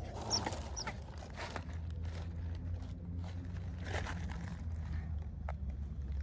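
Small monkey giving a couple of short, very high squeaks in the first second, with rustling and scattered clicks over a steady low hum.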